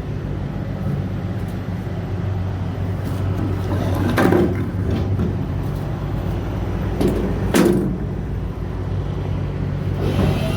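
Big-rig truck's diesel engine running steadily, heard as a low hum, with two brief louder noises about four and seven and a half seconds in.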